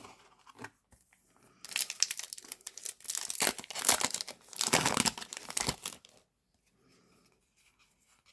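A foil trading-card booster pack wrapper crinkling and tearing open: a dense run of crackles starting about one and a half seconds in and stopping about two seconds before the end.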